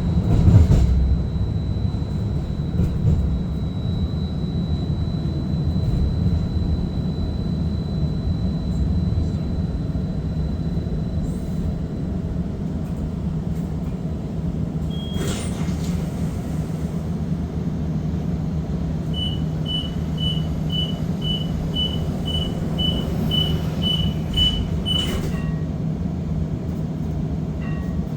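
Inside a First Hill Streetcar waiting at a stop: a steady low hum throughout. Later, a run of about a dozen short high beeps, about two a second, sounds for about six seconds and ends with a knock, the warning before the doors close for departure.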